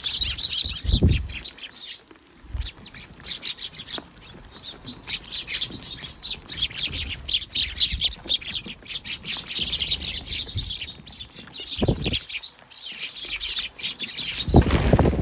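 Eurasian tree sparrows, young birds among them, chirping rapidly and continuously as they feed together, with a few short low thumps about a second in, near 12 seconds and near the end.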